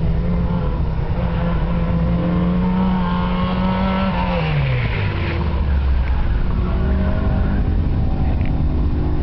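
Toyota Corolla's four-cylinder engine pulling hard through an autocross course, holding a steady high note, then dropping in pitch about four seconds in as the driver lifts off and the engine settles to a lower, steady note.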